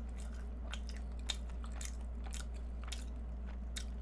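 Close-up chewing of an egg tart: small, irregular crackles and mouth clicks from the pastry, about three a second, quiet over a low steady hum.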